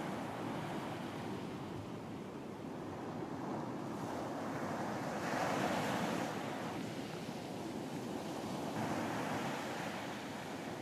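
Ocean surf washing onto a beach, a steady rush of water with a louder wave breaking about five seconds in and another smaller one near the end.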